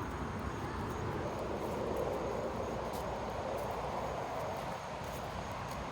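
Steady outdoor background noise: a low rumble and hiss, with a few faint clicks.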